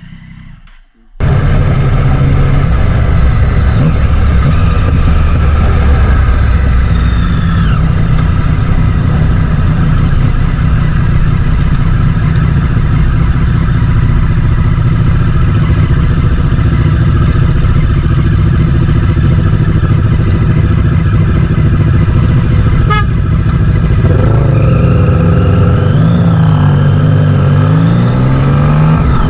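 Motorcycle riding at speed, heard from a rider-mounted camera: heavy, steady wind rush over the microphone with the engine running underneath. It starts abruptly about a second in. Near the end the engine note climbs and drops several times.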